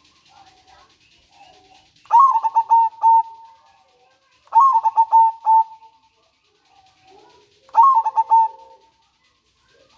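Zebra dove (perkutut) singing: three phrases, each a quick run of short, clipped cooing notes that trails off after about a second.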